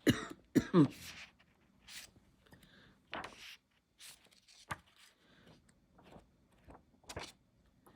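Pages of a paper book being handled and turned: intermittent short rustles and soft taps. A brief murmured vocal sound comes in the first second.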